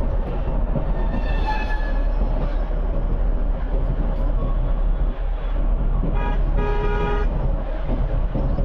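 Road traffic with vehicle horns honking: one horn about a second in, then a short honk followed by a longer one about six seconds in, over a steady low rumble of traffic.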